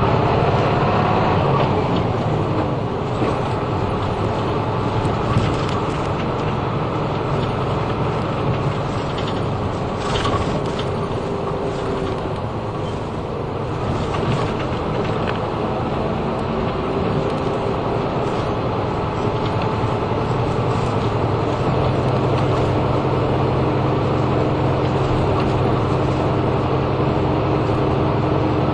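Route bus running, heard from inside the cabin: steady engine and road noise, with a faint whine that slowly shifts in pitch as the bus changes speed.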